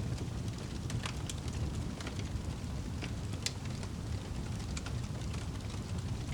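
Wood fire crackling in a fireplace: scattered sharp pops and snaps, one louder crack about halfway through, over a steady low rumble of the burning fire.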